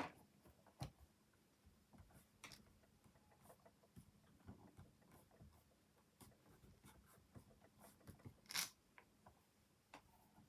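Near silence with faint, scattered taps and rustles of paper and stamping tools being handled, and one brief louder rustle about eight and a half seconds in.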